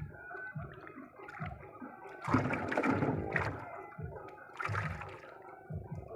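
Water splashing and sloshing, with two louder splashes about two and a half and four and a half seconds in, over low knocks that recur roughly once a second.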